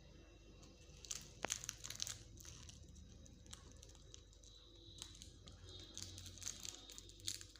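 Pet parrot crunching and nibbling food with its beak: faint, crisp crackles in two spells of irregular bites.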